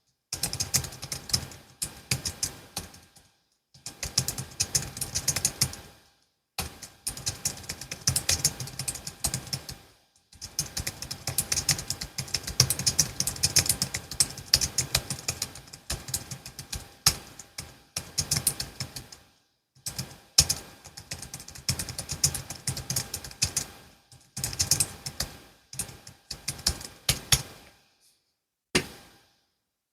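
Typing on a Logitech MX Keys S low-profile scissor-switch keyboard: rapid runs of soft key clicks in bursts of a few seconds, broken by short pauses.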